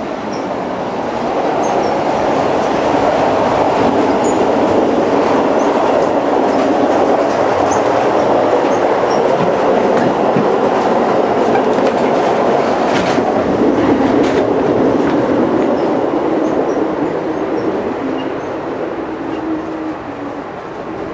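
Moving Amtrak passenger train heard from inside the cars: a loud, steady rumble and clatter of wheels on track. It swells about two seconds in and eases near the end, with a few sharp clacks past the middle.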